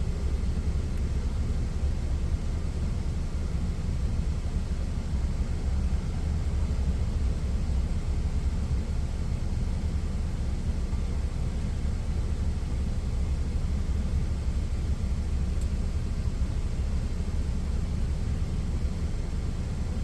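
Steady low rumble of an idling truck engine, unchanging throughout.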